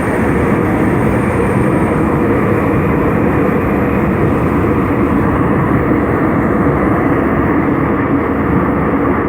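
Seoul Subway Line 5 train running at speed through its underground tunnel: a steady, loud rumble of wheels on rail and running gear.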